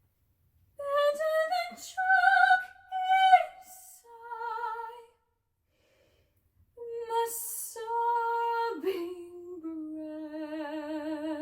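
A solo classical voice singing with no accompaniment heard. There are two phrases: the first climbs to high held notes, and after a pause of about a second and a half the second sinks to a long low note sung with wide vibrato.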